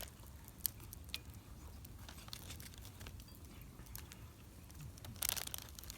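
Plastic food packaging being handled, with scattered light clicks and crinkles and a short rustling burst about five seconds in.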